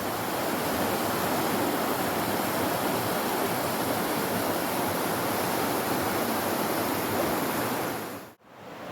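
A steady rushing noise, like outdoor water or wind on the microphone, that cuts out abruptly near the end and comes back quieter.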